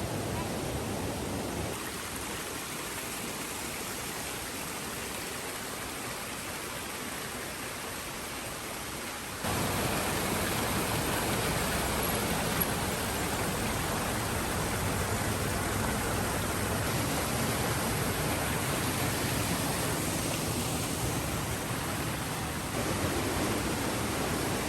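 Rushing water of a mountain creek, a steady hiss that steps quieter about two seconds in and louder again about nine seconds in.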